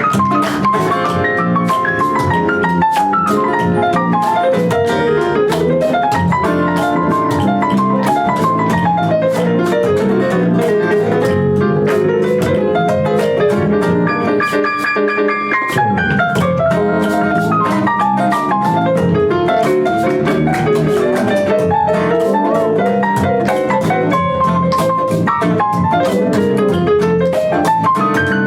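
Live band playing an instrumental break: a keyboard solo of fast runs up and down over bass and drums.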